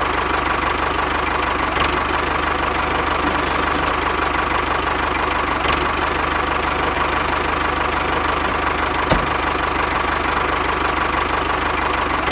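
Engine of a homemade tractor running steadily, with three brief sharp knocks spread through it.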